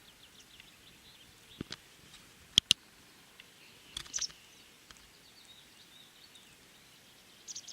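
Faint short bird chirps, high-pitched and scattered. A few sharp clicks cut through them, and the loudest are two clicks close together about two and a half seconds in.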